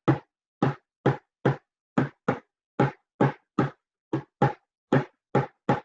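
A spoon drumming on an old oatmeal container used as an improvised drum: about fourteen strikes in a loose, uneven rhythm.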